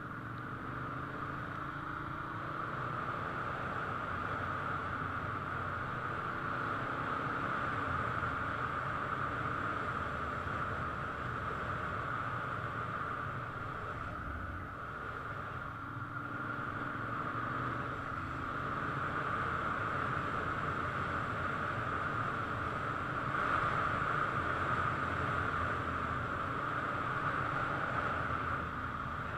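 Ducati motorcycle engines running at low revs, their pitch drifting slowly up and down, under a steady hiss of background noise.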